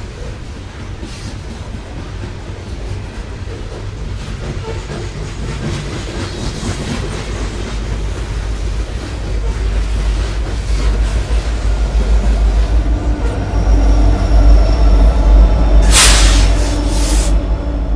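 Freight train of loaded coal hoppers rolling past, wheels clattering and squealing on the rails, growing louder toward the end as a steady diesel locomotive drone comes in. A sharp hiss lasting about a second comes near the end.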